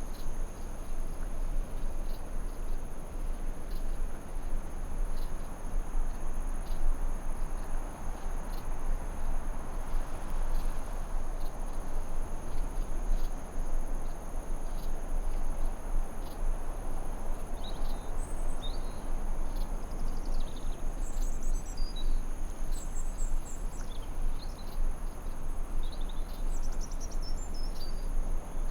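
Forest ambience over a steady, even hiss, with a continuous high-pitched drone above it. Short bird chirps come in scattered through the last third.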